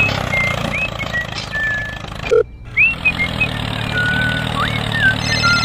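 Engine running steadily with a low hum, with short high chirps and whistles over it and a brief break in the sound about two and a half seconds in.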